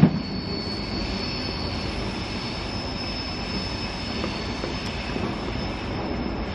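Electric commuter train running slowly through a rail yard: an even, steady rumble of wheels on track with a faint, steady high-pitched whine above it.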